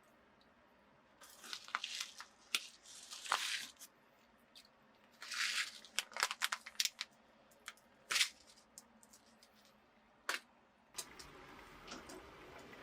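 Shrimp food being handled for feeding: irregular crinkling and rustling bursts with sharp clicks. A steady hiss comes in near the end.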